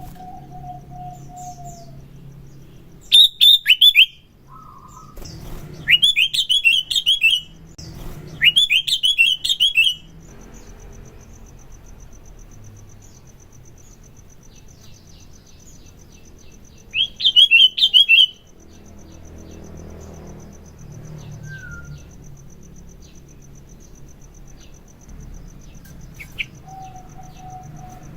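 Sooty-headed bulbul (kutilang) singing in four bursts of quick, sharp falling chirps. A faint steady high buzz, like a cricket, runs underneath from about a third of the way in.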